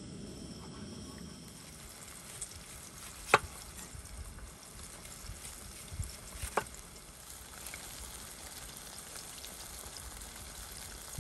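Burger patty frying in a pan with a steady sizzle. Two sharp clicks, about three seconds apart, cut through it.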